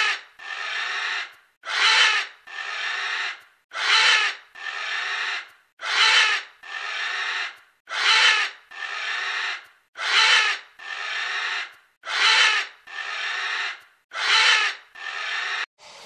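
Porcupine making a repeated two-part noisy sound, a short loud burst followed by a longer, softer one, about every two seconds, eight times over.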